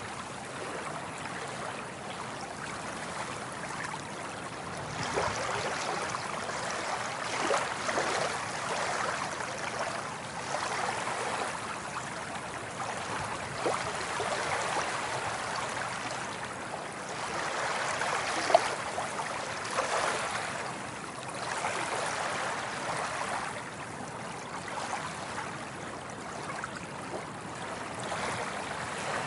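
Water waves washing and splashing, swelling and ebbing every few seconds, with one brief sharp splash about 18 seconds in.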